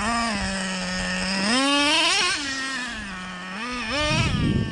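Traxxas Revo 3.3 nitro engine running steadily, then revving up and falling back about a second and a half in, and revving again near the end.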